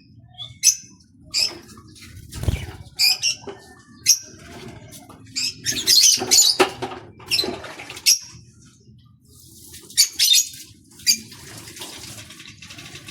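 Small birds bathing, fluttering their wings in water in quick bursts of splashing, busiest around the middle, with short high chirps in between.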